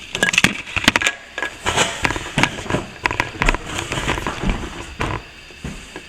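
Hand tool scraping and picking at cracked plaster, with a rapid, irregular run of sharp clicks and scrapes and loose bits crumbling away.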